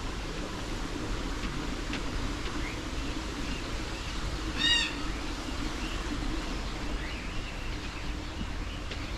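Birds calling: scattered faint chirps, and one brief loud call made of several quick stacked notes about halfway through, over a steady low hum.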